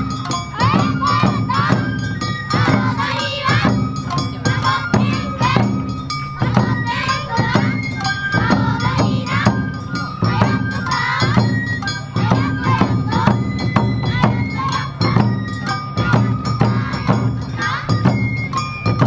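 Awa Odori festival music: taiko drums and a clanging kane gong strike a fast, steady rhythm under a bamboo flute melody, with shouted calls from the dancers.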